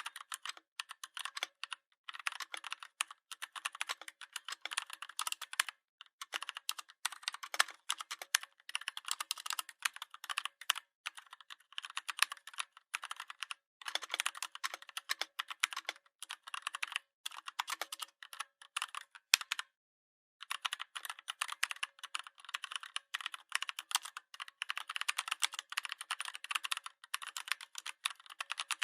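Continuous fast typing on a computer keyboard: a dense stream of key clicks with short pauses, and a clean break of about half a second roughly twenty seconds in.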